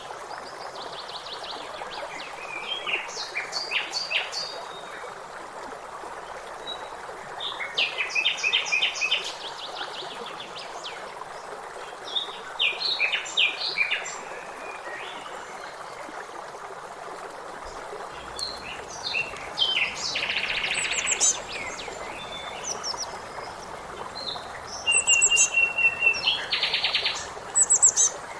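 Songbirds singing in short phrases of quick repeated notes and trills every few seconds, over a steady background hiss.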